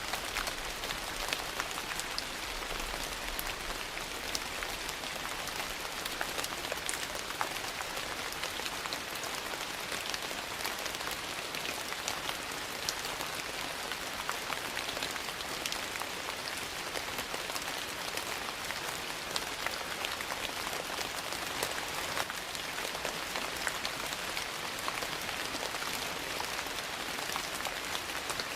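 Steady rain falling, mixed with the crackle of a wood fire: a continuous even hiss dotted with many small sharp ticks and pops.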